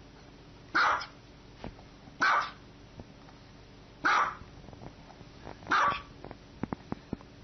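A small white dog barking four times, single short barks spaced about one and a half to two seconds apart. A few short clicks sound near the end.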